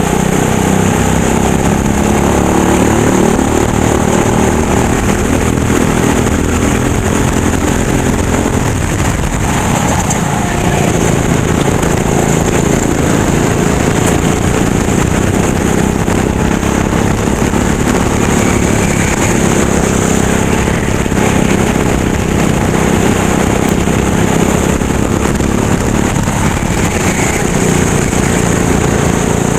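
Go-kart engine running hard under racing load, its pitch falling about a third of the way through and then rising again as it comes off and back onto the throttle.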